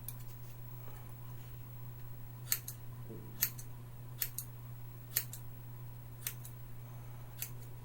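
Scissors snipping hair in a self-haircut: short, sharp snips about once a second, some in quick pairs, over a steady low hum.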